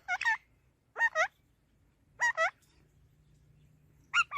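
A parrot calling in short clusters of two or three quick pitched notes, four clusters spread over about four seconds.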